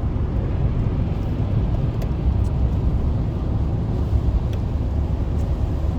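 Steady rumble of a car driving at highway speed on a wet road, heard from inside the cabin, with a few faint ticks.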